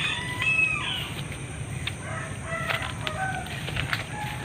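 Domestic chickens calling: a rooster crowing and hens clucking in short pitched calls, over a steady low background rumble.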